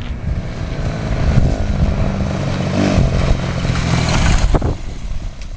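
Mini bike's small engine running at a steady speed for a few seconds, then dropping off near the end.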